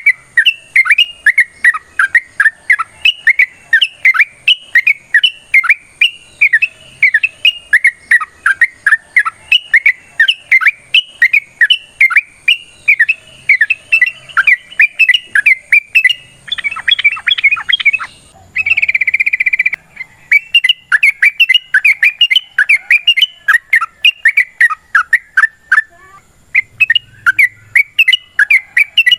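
Yellow-vented bulbul (trucukan) singing a long, fast, unbroken run of sharp chattering notes, the rolling song that keepers play as a lure to set other trucuk birds singing. Partway through, the run breaks into a brief harsh buzzy call before the chattering resumes.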